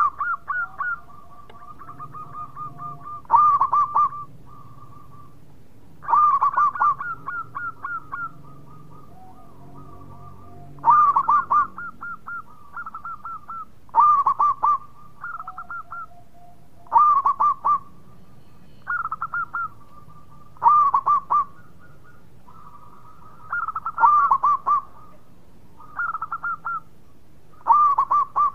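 Zebra dove (perkutut) singing: loud phrases of rapid, clipped cooing notes repeat about every three seconds, with softer trilling notes between them.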